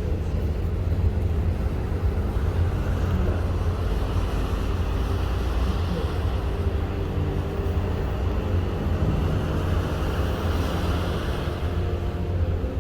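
Steady low rumble of a ship underway at sea, with a constant rushing noise of wind and water over it.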